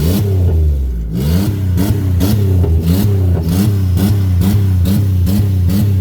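Buick Century's engine held at full throttle, bouncing on the rev limiter: the revs surge and cut back in a rapid, even rhythm about three times a second.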